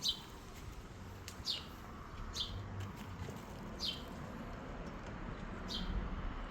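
A bird calling with a short, high chirp that falls in pitch, repeated about five times at intervals of one to two seconds, over faint background noise.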